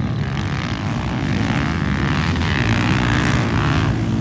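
Motocross motorcycle engines running together in a steady, continuous drone.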